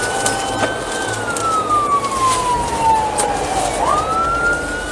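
Police car siren wailing: its pitch climbs quickly, falls slowly over about three seconds, then climbs again near the end, over steady road noise.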